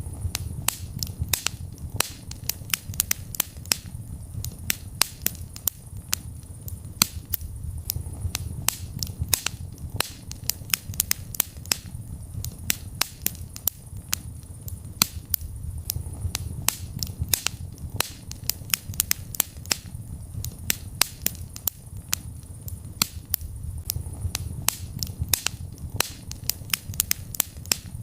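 Wood fire burning in a fireplace: many sharp, irregular crackles and pops, several a second, over a low steady rumble of the flames.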